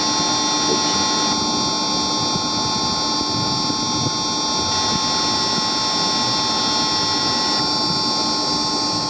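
Steady hum and whine of running machinery with several constant high tones, unchanging throughout and without any knocks or impacts.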